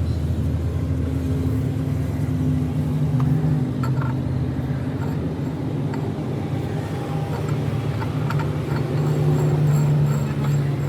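An engine running steadily, a continuous low rumble, with a few faint light clicks.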